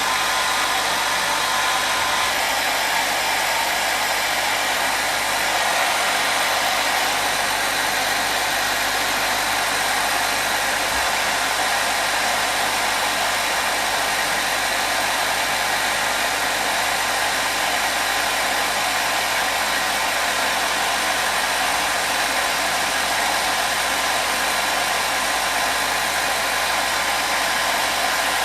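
Hair dryer blowing steadily, a continuous even whooshing hiss used as white noise.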